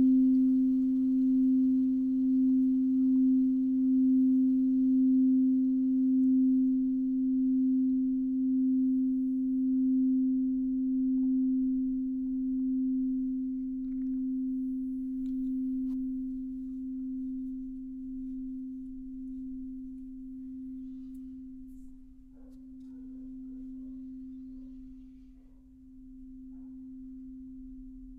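A sound-healing instrument ringing one pure, steady tone near middle C with a gentle pulsing wobble, slowly fading away.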